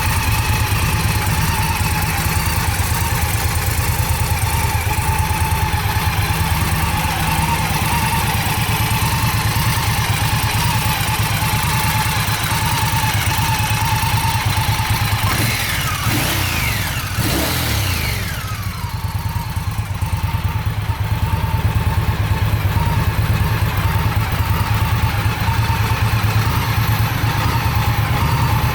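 Indian Scout V-twin motorcycle engine idling steadily with a low, pulsing rumble. About halfway through, the note briefly sweeps down in pitch and dips, then settles back to the same idle.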